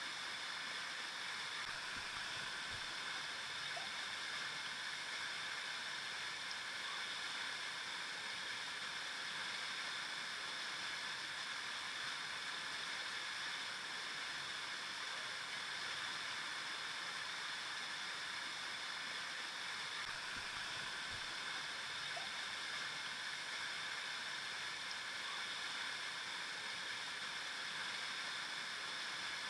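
River water flowing over rocks, a steady, even rush and babble.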